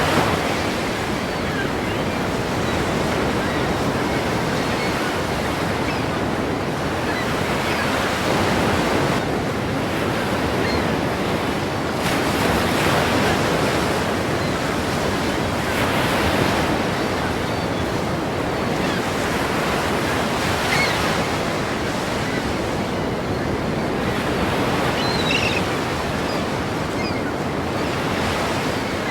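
Ocean surf breaking continuously, a steady wash of water noise that swells as each wave crashes every few seconds.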